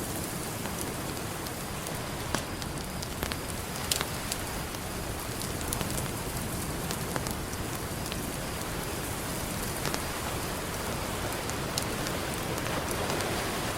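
Campfire crackling, with scattered sharp pops a few seconds apart, over a steady wash of ocean surf that swells slightly near the end.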